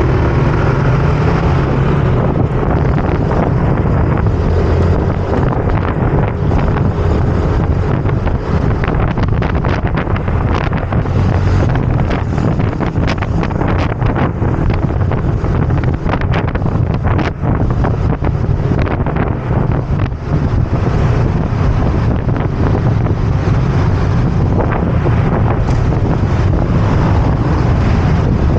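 Steady wind buffeting the microphone of a moving motor scooter, with the scooter's engine and road noise underneath.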